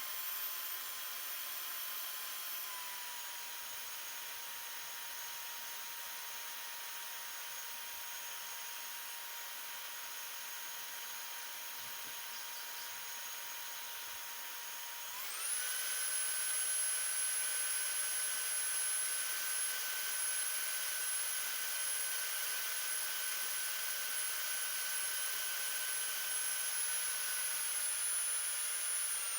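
A small high-speed electric motor whining steadily. About fifteen seconds in it quickly speeds up to a higher, louder pitch and holds there.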